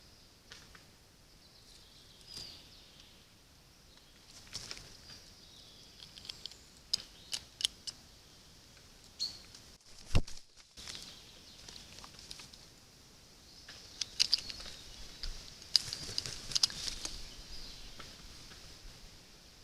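Wild birds chirping at a trail camera, with scattered sharp clicks and taps. About halfway through, the sound cuts out briefly with a loud click.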